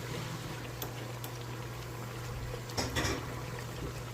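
Beignet dough deep-frying in hot oil: a steady bubbling sizzle with scattered crackles and pops, a small cluster of them near the end, over a steady low hum.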